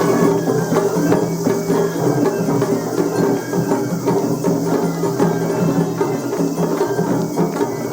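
Japanese festival hayashi music from a float band: drums and a small kane gong struck in a busy, steady rhythm under a sustained melody line.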